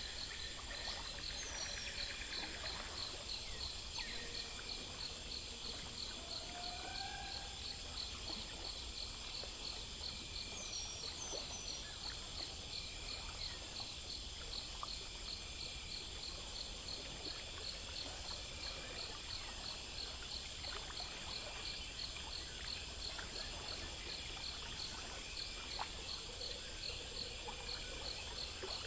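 Night-time insect chorus: crickets chirping in steady, evenly repeating pulses, with a higher continuous insect trill, over a low hiss of ambient noise. A few faint short calls come through near the start and about ten seconds in.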